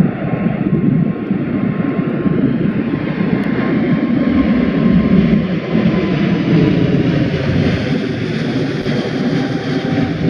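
Jet engines of a Boeing 747 freighter running at power during a go-around, a steady, loud, low rumble with a faint whine that dips slightly in pitch about two thirds through.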